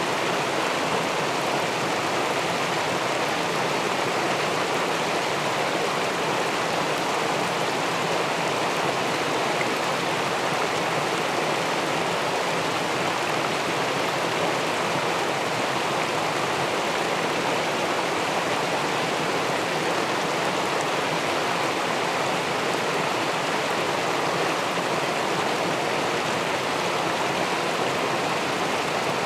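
Steady, unbroken rush of river water pouring down below a small weir into a pool.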